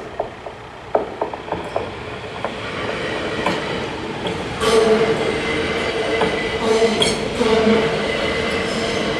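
NMBS MS08 Siemens Desiro electric multiple unit passing over the level crossing. A few light clicks as it approaches, then louder from about four seconds in: a steady whine over the running noise, broken by sharp wheel clacks over the rails.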